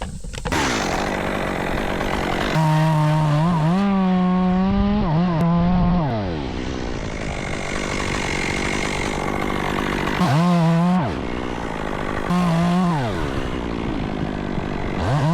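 Chainsaw revved to full throttle in bursts: one of about three seconds, then two shorter ones of about a second each, with the pitch sliding down as the throttle is let off between them. A steady rough running noise continues between the bursts.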